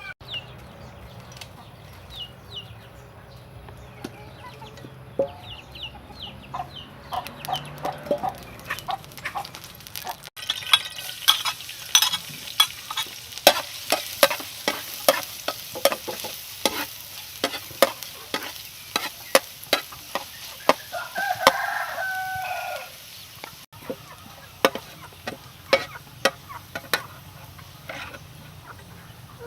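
Raw rice being stir-fried in a pan: a spatula stirs and scrapes it in rapid, uneven clicks over a light frying hiss. A rooster crows about 21 seconds in.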